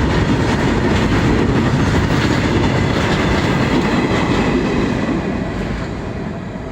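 Freight train's wagons rolling past, a loud steady rumble with wheels clacking over the rails, slowly fading near the end.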